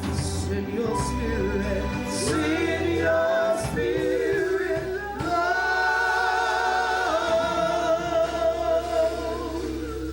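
Gospel praise team singing a worship song, with long held notes sung with vibrato over a steady low accompaniment.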